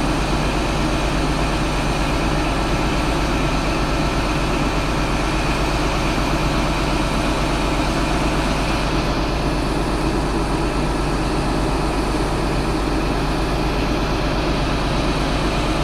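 Heavy vehicle engine running steadily, with a low even hum and rumble.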